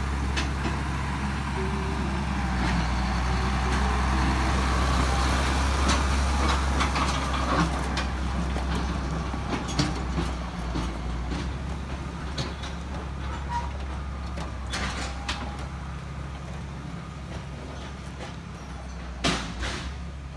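A heavy vehicle's engine running steadily, a little louder in the first half and then easing off, with scattered sharp metallic clanks and knocks, the loudest one near the end.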